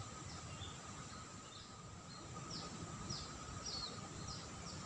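Faint outdoor ambience: a bird giving short, high, falling chirps, more often in the second half, over a steady faint high hum of insects.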